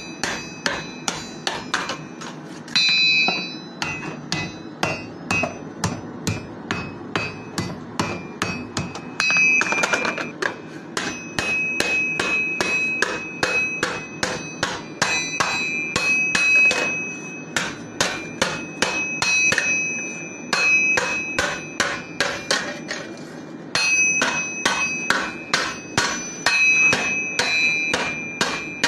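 Blacksmith's hammer striking steel on an anvil, a steady run of blows about two to three a second, each leaving a bright metallic ring, with a few brief pauses.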